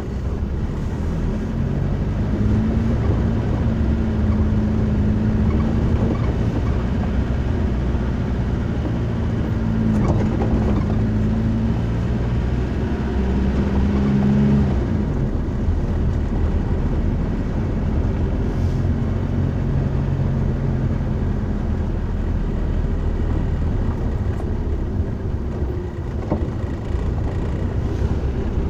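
A motor vehicle driving: a steady low engine and road rumble, with the engine hum shifting pitch a few times.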